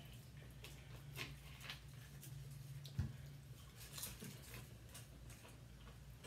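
Quiet eating sounds: potato chips being crunched and chewed, with scattered crackles and mouth clicks. A plastic drink bottle is set down on the table with a single thump about three seconds in, over a low steady hum.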